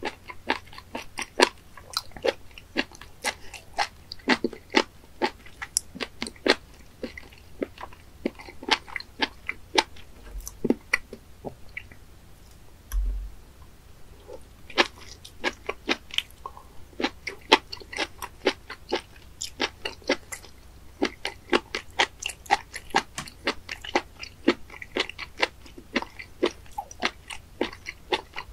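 Raw spoon worm (gaebul) being bitten and chewed: a quick, steady run of sharp clicks and mouth sounds from the rubbery flesh, with a brief pause about halfway through.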